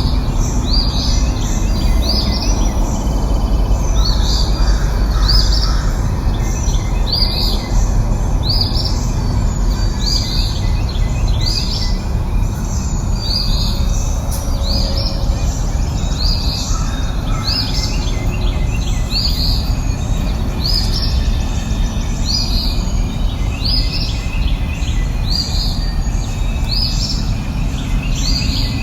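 A songbird repeating a short, rising chirp about once a second, over a steady low background rush.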